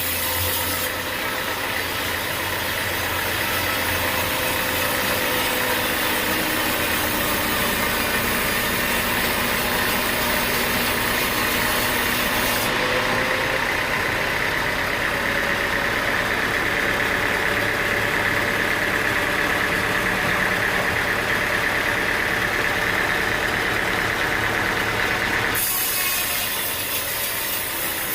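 Engine-driven sawmill running steadily, a continuous machine noise with a held high whine.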